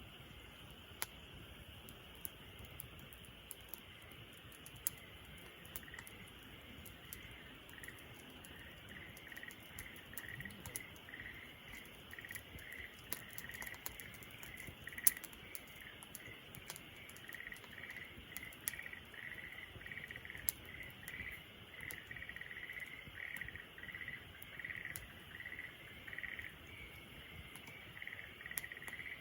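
Wood fire crackling with scattered sharp pops, over a chorus of outdoor night animals: a steady high chirring and a chirping that repeats about twice a second, growing stronger from about six seconds in.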